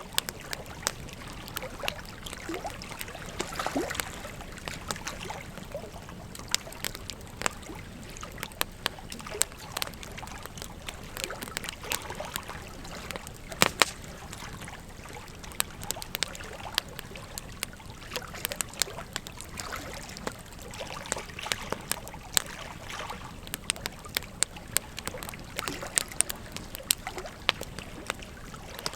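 Wood fire crackling with frequent sharp pops, a louder pair about halfway through, over the steady rush of flowing river water.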